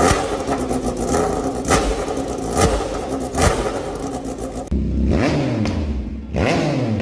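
Loud motorcycle exhaust: an engine held at high revs, broken by several sharp pops or bangs over the first four seconds or so. It changes abruptly to two rev blips that fall away in pitch.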